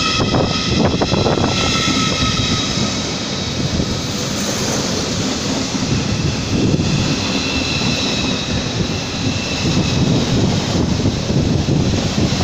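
Train moving through the station: steady running noise with several high, steady whining tones above it, strongest at the start and again near the end.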